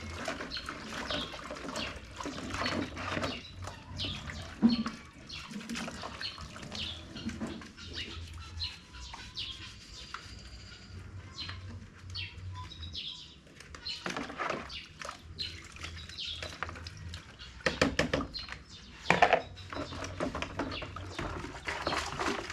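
Birds chirping, mixed with irregular knocks and some splashing of water; the loudest knocks come in clusters about two-thirds of the way through and near the end.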